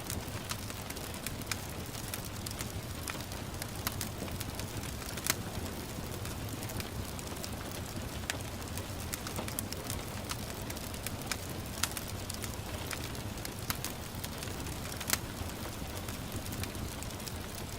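Wood fire crackling, with sharp pops at irregular moments, over a steady hiss of gentle rain.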